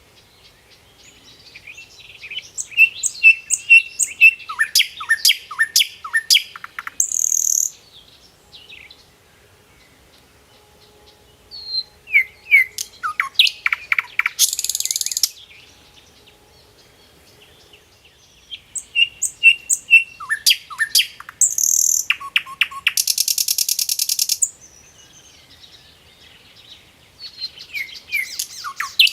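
A songbird singing in repeated phrases: each is a run of sharp chirps and quick downward-sliding notes that ends in a buzzy high trill. The phrases come about every eight seconds, with quiet gaps between them.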